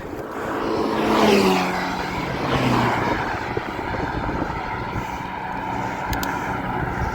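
A motor vehicle passes close by, its engine note rising to a peak about a second in and then dropping in pitch as it goes away, with a second, lower engine drone following; steady wind noise on the microphone runs underneath.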